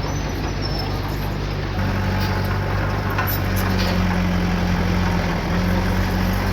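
Heavy-equipment diesel engine running steadily, growing louder about two seconds in, with a light knock near the middle.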